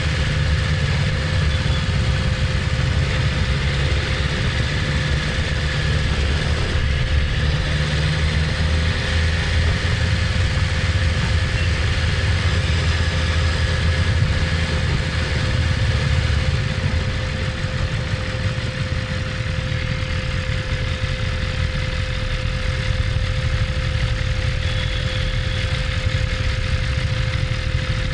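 BMW S1000RR's inline-four engine running steadily at low revs, a continuous low rumble with a faint steady hum above it; it softens slightly about two-thirds of the way through.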